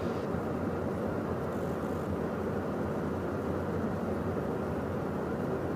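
Steady cabin noise inside the cockpit of a Beechcraft Premier 1A twin-turbofan business jet in flight: an even rush of airflow and engine noise with a low hum underneath.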